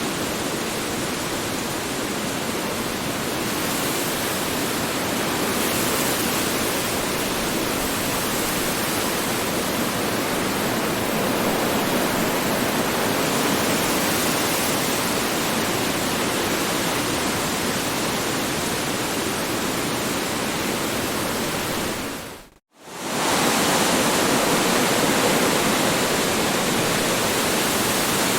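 Strong wind blowing in a steady rush with slow, gentle swells. It fades out for a moment about three-quarters of the way through and comes straight back, like a loop point in the recording.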